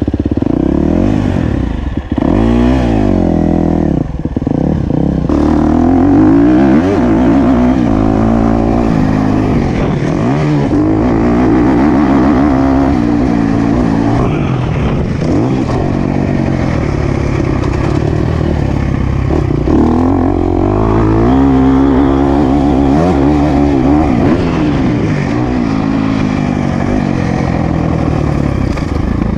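Motocross bike engine being ridden hard on a dirt track, revving up and dropping back again and again as the throttle is opened and closed through the laps.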